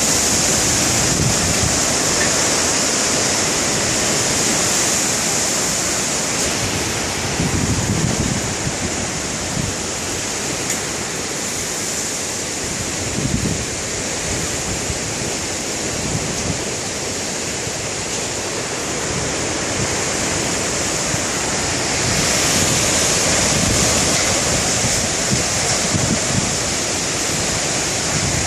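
Strong dust-storm wind blowing steadily, with gusts buffeting the microphone now and then.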